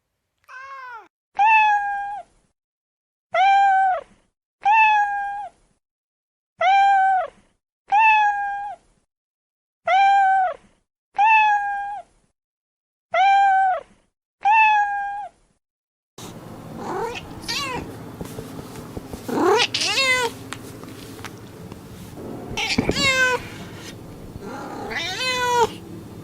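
Cat meowing: about nine identical drawn-out meows come in pairs with silence between them. About two thirds of the way through, a different recording takes over, with a steady background hum and a few higher meows that rise and fall.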